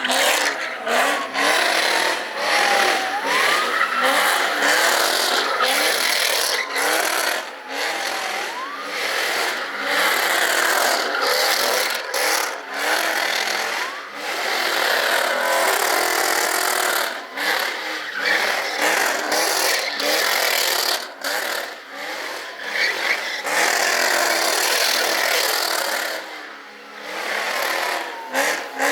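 Car tyres screeching and scrubbing on pavement as a car spins donuts, a rough continuous squeal that wavers in pitch and dips briefly near the end.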